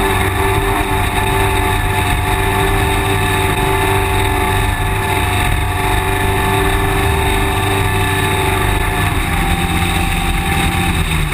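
Polaris RZR S side-by-side engine running steadily while driving, its engine note shifting about nine seconds in.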